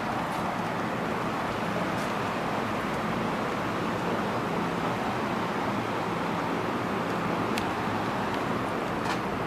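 Steady rumble and hiss of railway station platform ambience, with a faint low hum and a few faint clicks.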